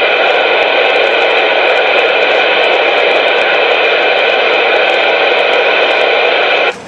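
CB radio static: a loud, steady hiss over the channel that cuts off suddenly near the end.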